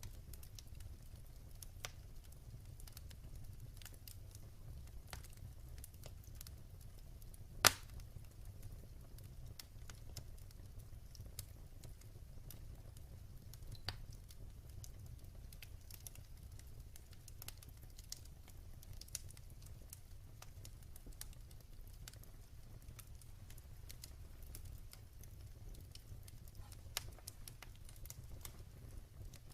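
Wood fire burning in a fireplace: a low steady rumble with sparse faint crackles, and one loud sharp pop about eight seconds in.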